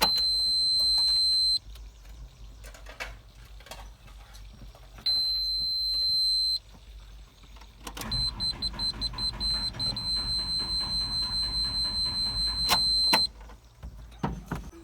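Excavator cab warning buzzer sounding a steady high tone twice for about a second and a half each. It then sounds for about five seconds while the Isuzu 4HK1 diesel cranks with a rhythmic chug and fails to start, a no-start from a camshaft position sensor and wiring fault.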